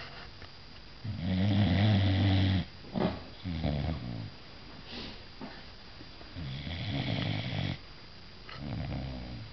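Dog snoring in its sleep: two breaths, each a long snore of about a second and a half followed by a shorter, quieter one, the first breath the loudest.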